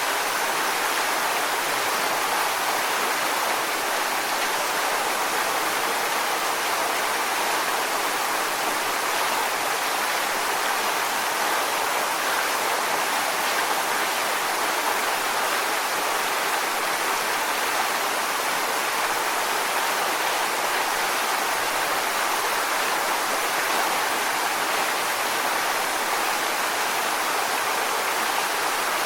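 Waterfall: water falling and rushing over rocks in a steady, even roar of white noise.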